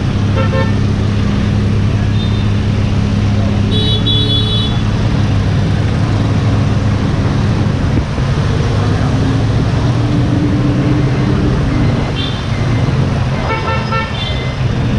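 Road traffic with a steady low engine drone. Short vehicle horn honks sound several times: near the start, around four seconds in, and again in the last few seconds.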